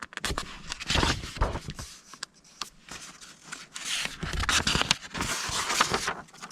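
Paper being handled: irregular rustling and scraping with many small sharp clicks, heaviest about a second in and again from about four to six seconds in.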